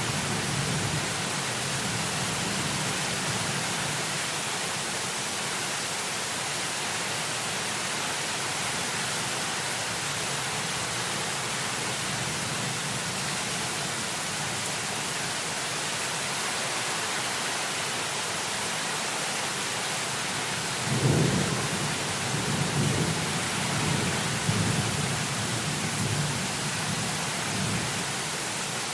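Heavy rain falling in a steady hiss. About two-thirds of the way through, a sudden clap of thunder breaks in and rolls on in low rumbles for several seconds.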